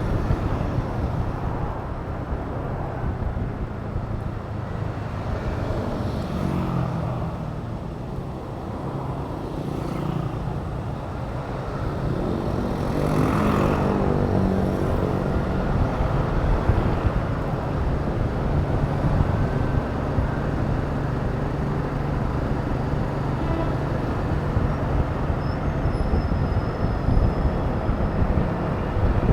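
Honda Click 125 scooter's single-cylinder engine running under way, with road and traffic noise around it. The engine speeds up about twelve seconds in, then holds a steady pitch.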